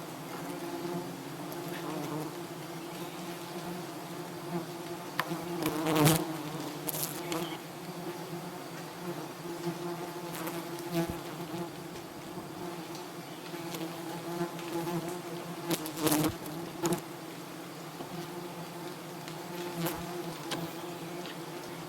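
Honeybees buzzing around a hive in a steady, even hum, with a couple of sharp knocks about six seconds in and again about ten seconds later.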